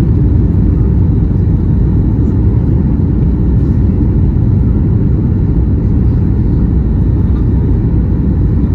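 Steady low rumble of a Boeing 737-800 in flight heard from inside the cabin: its CFM56 engines and the airflow over the fuselage.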